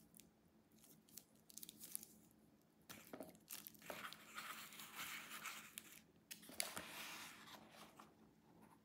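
Faint rustling and crinkling of packaging being handled, with scattered small clicks. The rustling builds about three seconds in and fades out near the end.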